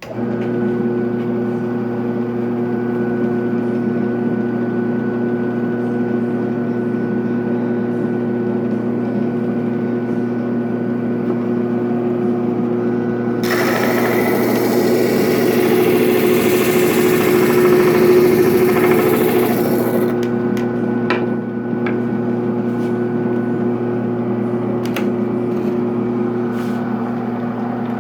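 Homemade drum sander, driven by a washing-machine motor, starts and runs with a steady electric hum. About halfway through, a piece is pressed against the sanding drum for several seconds, adding a harsh rasping hiss. A few light clicks follow.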